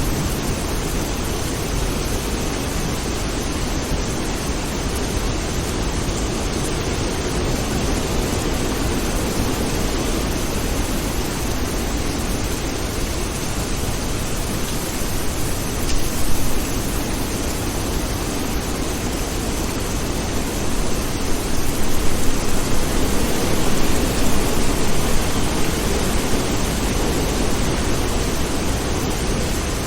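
Steady, dense rainfall, a constant even hiss of rain, swelling louder for a few seconds past the middle.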